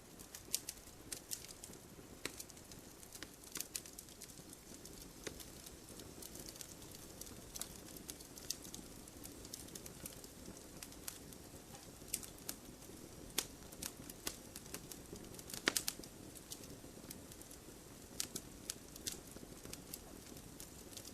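Firewood burning in a wood stove: irregular sharp crackles and pops over a faint steady low background, with one louder pop about sixteen seconds in.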